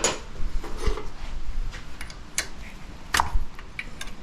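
Scattered sharp clicks and knocks of hard engine parts being handled as a top-end part of a Harley-Davidson Sportster 1200 engine is worked loose and popped off by hand during teardown. The loudest knocks come at the start and about three seconds in.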